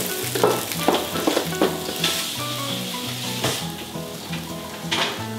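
Shredded vegetables sizzling as they fry in an oiled pan, a steady hiss, with background music and a few sharp clicks over it.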